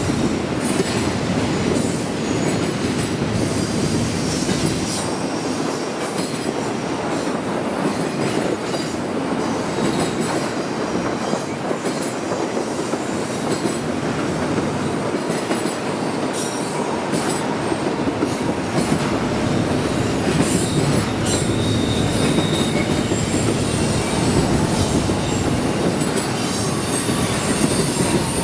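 A train's cars rolling past on the rails, a steady wheel-on-rail noise that runs without a break.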